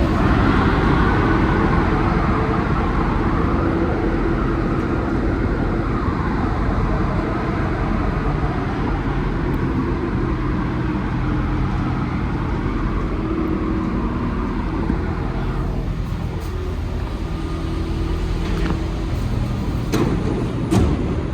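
Alstom NS-74 rubber-tyred metro train running, heard from inside the car: a steady rumble with motor tones that shift slowly in pitch, and a couple of sharp clicks near the end.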